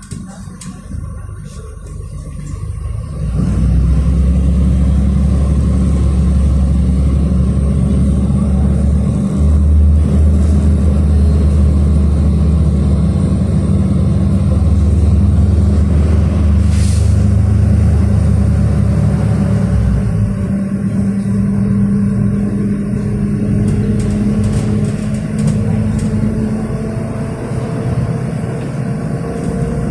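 City bus engine heard from inside the passenger cabin, getting louder about three seconds in and running under load as the bus drives, its pitch stepping a few times as it changes gear. A short hiss comes about halfway through.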